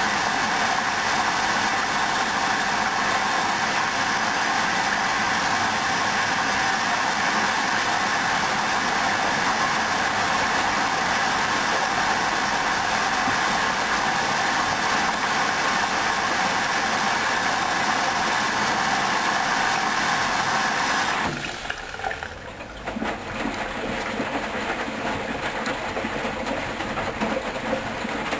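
Hoover washing machine taking in water, a steady hiss that stops abruptly about 21 seconds in as the inlet valve closes. After that comes a quieter, uneven sloshing and clunking from the turning drum.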